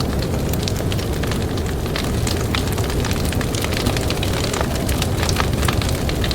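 Campfire crackling, with frequent sharp pops and snaps, over a steady low rumble of blizzard wind.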